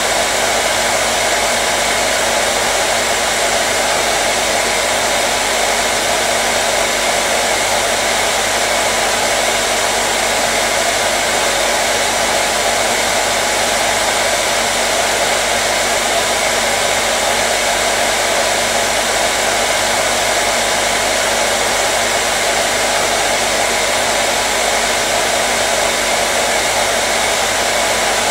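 Hair dryer running steadily: an even, loud blowing hiss with a constant motor hum underneath, unchanging throughout.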